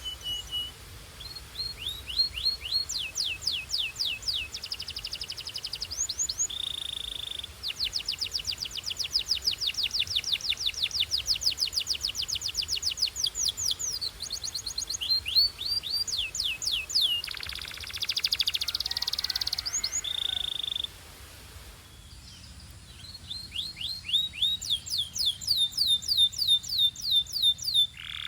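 Belgian canary singing: long fast trills of rapid, repeated falling notes at changing speeds, broken by short steady whistled notes and a harsher buzzy passage. The song pauses for about two seconds three-quarters of the way through, then the trills resume.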